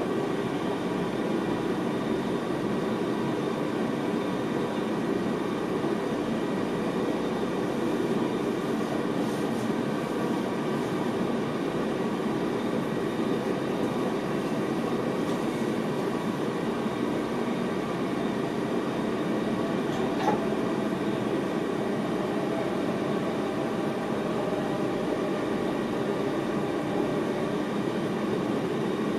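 Steady running noise in the driver's cab of an NS VIRM double-deck electric train: wheels rumbling on the rails under a steady electrical hum. A single sharp click comes about two-thirds of the way through.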